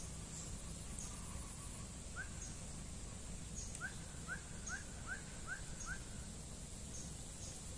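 Birds calling outdoors: a run of about six short rising notes, roughly two a second, from about four seconds in, with short high chirps repeated throughout over a steady low rumble.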